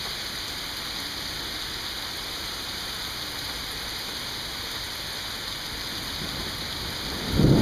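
Steady rain falling, an even hiss, with a low rumble of thunder breaking in suddenly near the end.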